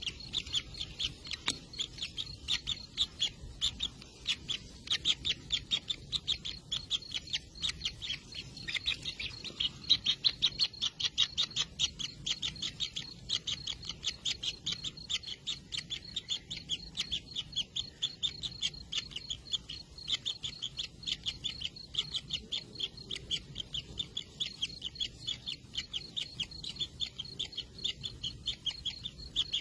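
Kingfisher nestlings calling: an unbroken run of short, high chirps, about four a second.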